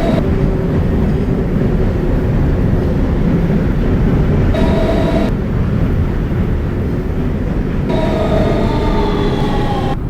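R160B subway train with Siemens propulsion running between stations: a steady loud rumble of wheels on rail. Electric motor whines come in and out, about halfway through and again in the last couple of seconds, where they fall slightly in pitch.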